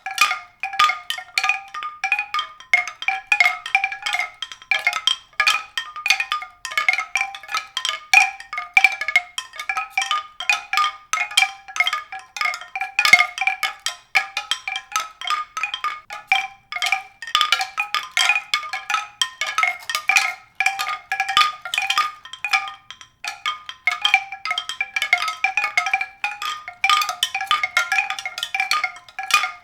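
Many rapid, high-pitched struck notes ringing over one another without a break, like a glockenspiel or chimes.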